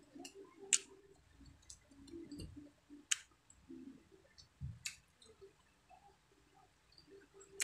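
Close-miked eating of fried dried milkfish (daing na bangus): quiet chewing broken by about four sharp, isolated smacking clicks.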